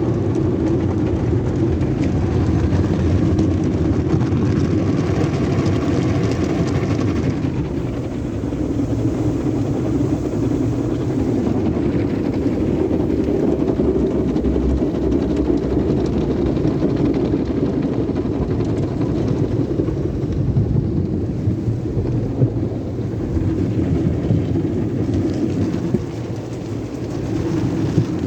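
Sonny's tunnel car wash equipment running: a steady, loud mechanical rumble. A higher hiss over it, like spraying, fades about seven seconds in and comes back faintly near the end.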